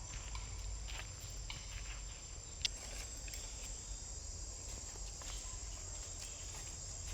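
Steady high-pitched insect trill, with scattered light clicks and rustles and one sharper tick about two and a half seconds in.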